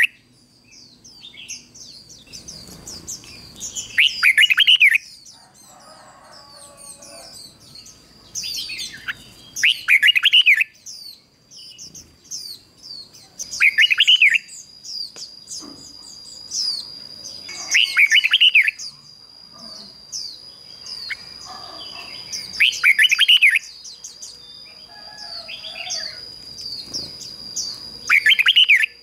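Red-whiskered bulbul singing short, loud song phrases about every four to five seconds, six in all, over a background of many fainter, higher chirps. A thin, steady high tone runs underneath from about nine seconds in.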